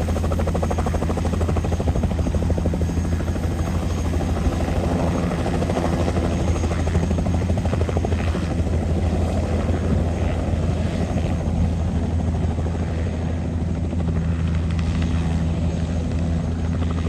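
Tour helicopter's rotor and engine running as a loud, steady drone with a rapid fine pulsing.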